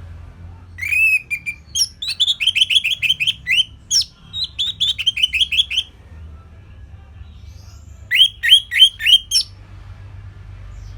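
Orange-headed thrush singing: a long phrase of quick repeated whistled notes lasting several seconds, then after a pause a short phrase of about five notes.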